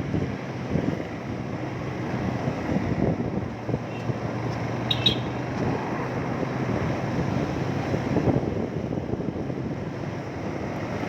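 Motorcycle riding at speed: a steady engine hum under wind buffeting the microphone, with a brief high chirp about five seconds in.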